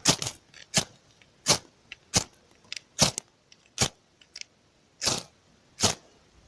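A ferro rod scraped hard with its steel striker. About eight short rasping strikes come at a steady pace, roughly one every three quarters of a second, trying to throw sparks onto birch bark.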